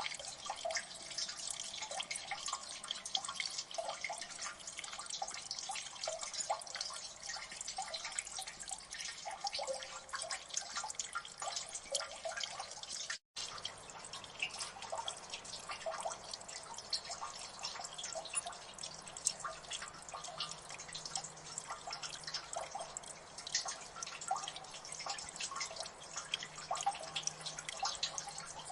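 Water dripping in a gully: many small drops falling close together without pause, with a momentary break about halfway through.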